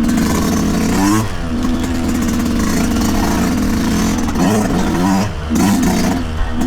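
2023 Yamaha YZ125's 125 cc two-stroke engine running hard on a trail ride. It sweeps up in revs about a second in, holds fairly steady for a couple of seconds, then swings quickly up and down as the throttle is blipped and let off, with wind rush over the microphone.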